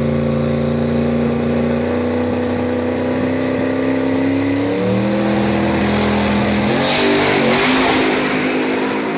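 Turbocharged 435ci Windsor V8 race engine held at steady revs. The pitch steps to new levels about two and five seconds in, then wavers, with a burst of hiss near the end.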